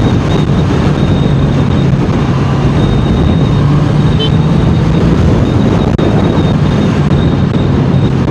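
Honda CBR650R's inline-four engine and exhaust running under way at a steady pitch, mixed with wind rush.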